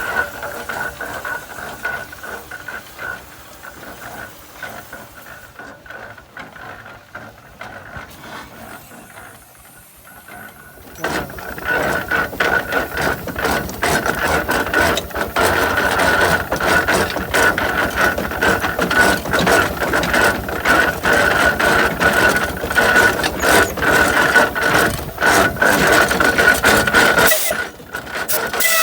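Half-scale Case steam traction engine running, its gearing clattering under a steady high-pitched whine. The clatter gets much louder about eleven seconds in.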